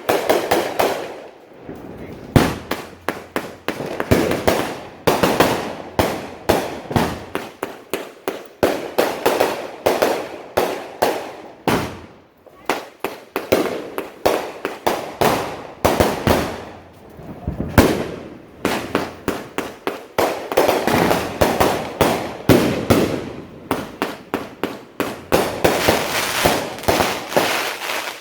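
Consumer fireworks going off in rapid, overlapping volleys of loud bangs and crackles, with a short lull about halfway through.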